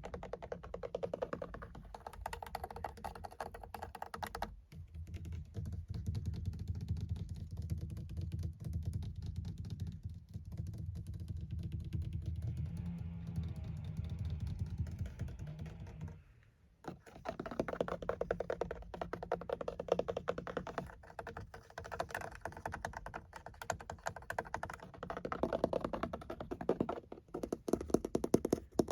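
Rapid fingertip and fingernail tapping on the surfaces of a car. The tapping turns deeper and duller for a stretch from about five seconds in, stops briefly about sixteen seconds in, then resumes lighter and brighter.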